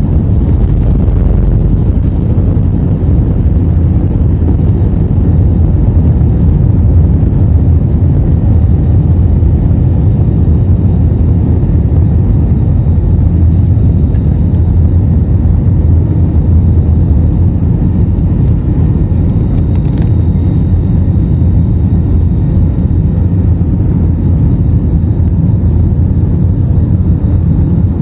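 Airliner cabin noise during the take-off flight: the engines and rushing air make a loud, steady low rumble, with a faint thin high whine running through it.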